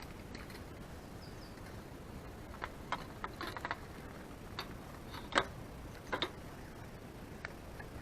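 Irregular sharp clicks and snaps, clustered in the middle and loudest about five seconds in, over a steady low hiss.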